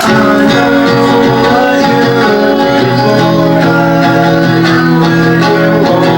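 Band music with guitar starting abruptly and playing on, with long held notes, in a country style.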